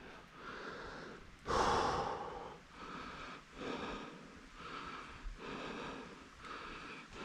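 A runner breathing hard, about one loud breath a second, the strongest about a second and a half in.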